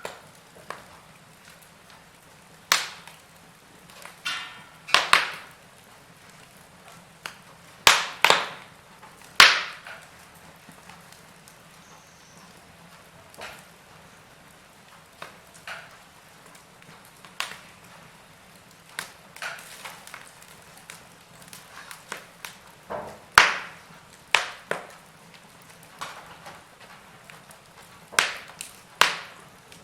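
Wood fire crackling in a fireplace: irregular sharp pops and snaps every second or so, a few much louder than the rest, over a faint steady hiss.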